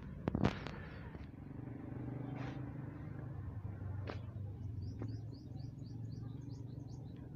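Quiet open-air ambience with a low steady hum, a few sharp knocks about half a second in, and a small bird giving a quick run of high, repeated chirps near the end.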